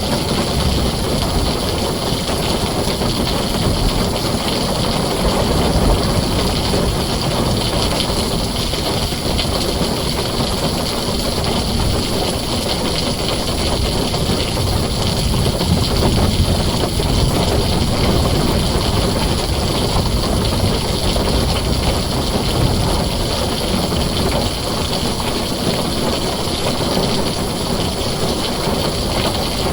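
Heavy rain falling on a tin roof: a dense, steady hiss with a low rumble underneath and no distinct claps.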